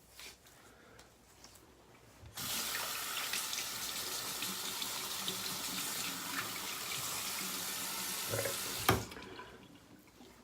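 Bathroom sink tap running steadily for about six seconds while a face is rinsed after a shave, then shut off, ending with a sharp knock.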